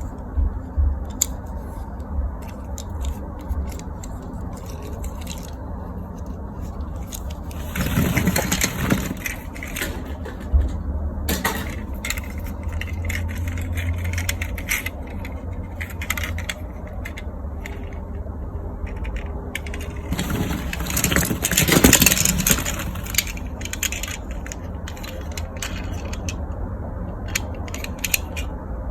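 Toy cars and plastic toys being handled: scattered small clicks and scrapes, with two louder clattering rattles, one about eight seconds in and a longer one around twenty-two seconds.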